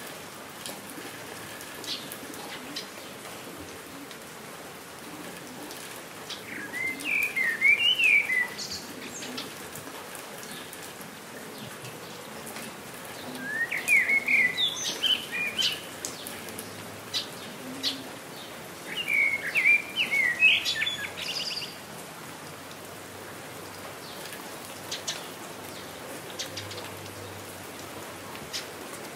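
Steady rain falling, with scattered sharp drop ticks. A songbird sings three short phrases of quick rising and falling notes, about seven, fourteen and twenty seconds in.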